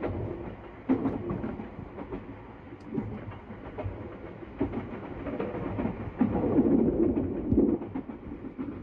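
Sunrise Izumo sleeper train, a 285 series electric train, running at speed, heard from inside the cabin: a steady rumble with wheels clicking over the rail joints. The noise grows louder for a couple of seconds about six seconds in.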